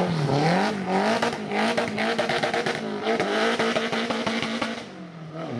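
Car engine revving in repeated blips, its pitch rising and falling, with many sharp exhaust crackles; it eases off near the end.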